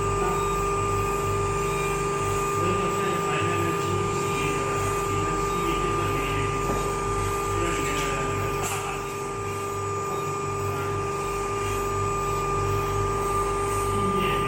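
Small benchtop CNC grinding machine running, its spindle giving a steady high whine over a pulsing low hum as it grinds down a phone chip.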